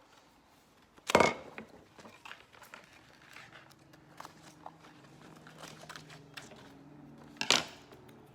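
Paper rustling and crinkling as small pieces are folded and handled, with two short loud crackles, about a second in and near the end.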